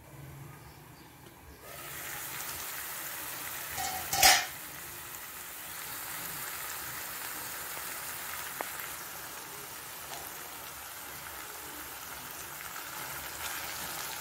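Chicken pieces frying in oil in a pan: a steady sizzling hiss that sets in about two seconds in, with one sharp metal clank about four seconds in.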